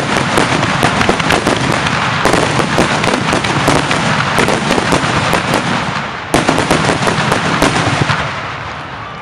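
Fireworks finale: a dense, continuous barrage of aerial shells bursting and crackling, with overlapping bangs. The barrage dips briefly about six seconds in, comes back with a sudden loud burst, then thins out and fades near the end.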